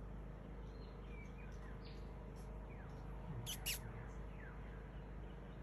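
Small birds chirping: scattered short falling whistles, with two sharp high chirps in quick succession just after halfway, the loudest sounds, over a faint steady hum.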